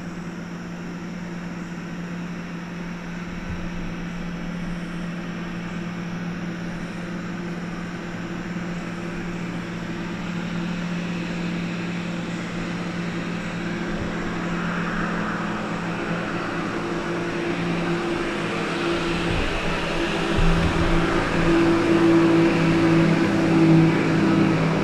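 A steady engine hum that grows gradually louder, as of something motorised drawing nearer.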